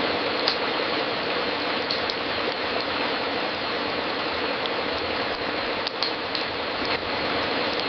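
Wood fire crackling in a fireplace: a steady hiss with scattered sharp pops and snaps a second or more apart, a small cluster of them near the end.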